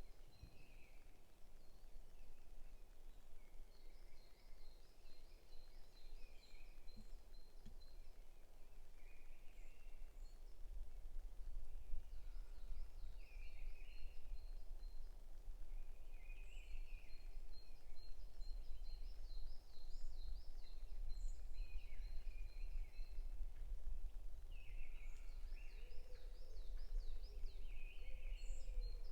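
Several wild birds calling and singing in a forest, with repeated short warbled phrases and high, rapid trills, over a low rumble that grows louder partway through.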